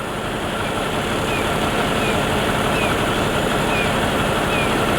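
A steady rushing noise that grows a little louder, with a bird repeating a short, high, falling chirp over it about every second.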